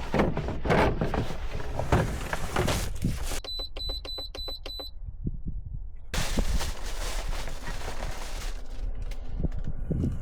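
A quick run of six short, high electronic beeps, about four a second, set between stretches of rustling noise with scattered clicks.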